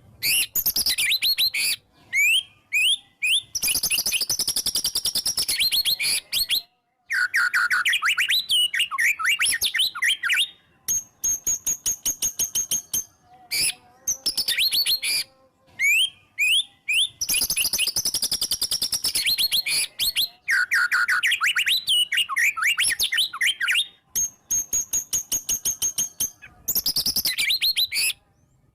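White-rumped shama (murai batu) singing a loud, varied song of fast whistled sweeps and trills in phrases broken by short pauses, with stretches of very rapid repeated notes.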